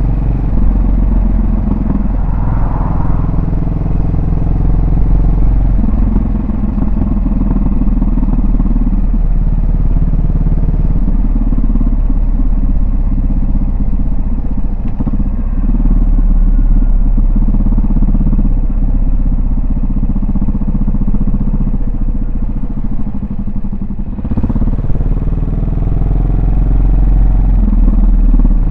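Yamaha SR400's air-cooled single-cylinder four-stroke engine and exhaust, running steadily under way while the bike is ridden. The note shifts with the throttle, and near the end it dips briefly before picking up again.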